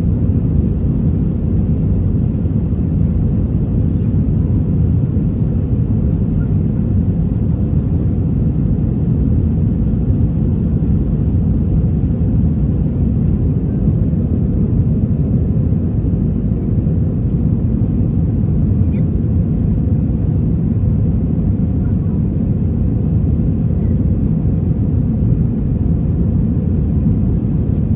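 Steady low rumble of an Airbus A321 airliner's engines and airflow, heard from inside the economy cabin.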